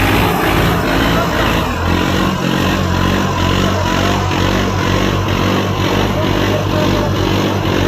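Tractor diesel engine running loud and steady, with a regular pulse throughout.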